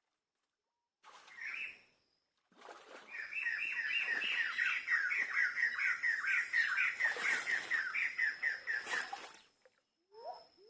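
A bird calling in a fast run of repeated chirps, about five a second, lasting several seconds, over a faint steady high tone. Two brief noisy bursts come in the middle and near the end of the run.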